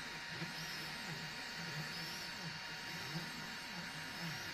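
Stepper motors of an EasyThreed K10 mini 3D printer whirring as the print head moves at the start of a print. The pitch rises and falls with each short move, over a steady hiss.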